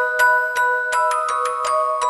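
Background music: a melody of struck, bell-like notes, about three a second, each ringing on into the next.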